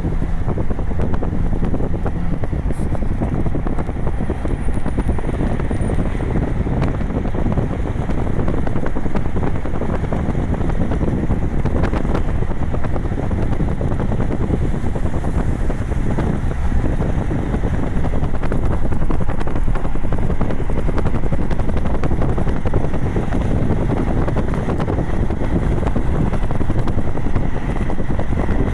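Wind buffeting the microphone: a loud, steady rumble with no clear pitch.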